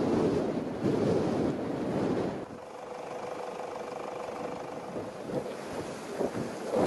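Wind gusting against the microphone, a rough rumbling rush that eases after about two and a half seconds, leaving a quieter steady blow with a faint hum.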